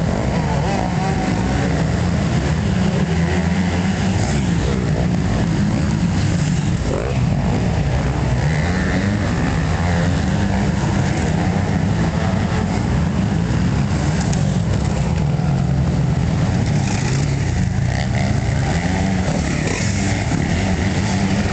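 Motocross dirt bike engines running and revving, with rises and falls in pitch.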